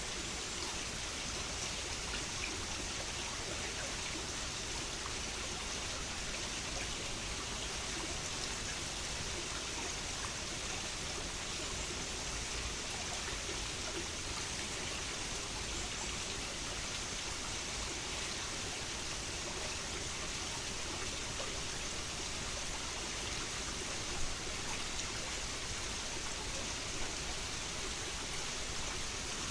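Mountain headwater stream flowing steadily, an even rushing and babbling of water.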